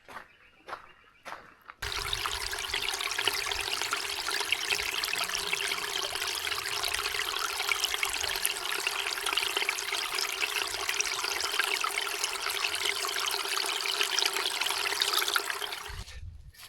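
Running water pouring steadily, a small falls of meltwater, starting abruptly about two seconds in and cutting off just before the end. A few footsteps come before it.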